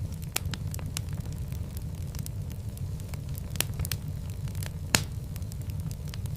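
Fire in a fireplace crackling, with many sharp pops and clicks over a steady low rumble; the loudest pop comes about five seconds in.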